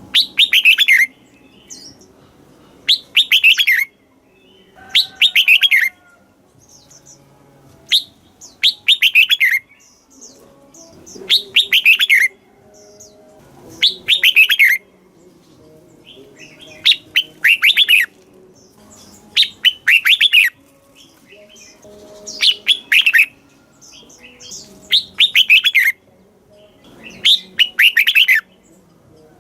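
Red-whiskered bulbul singing: short, bright phrases of quick falling notes, each about a second long, repeated every two to three seconds.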